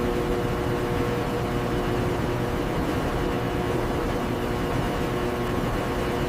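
Steady mechanical noise with a constant, unchanging hum of several tones, like machinery running.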